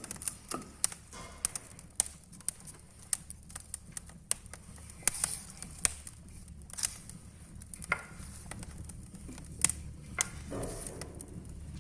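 Wood fire crackling in a fireplace: irregular sharp pops and snaps, several a second, some louder than others.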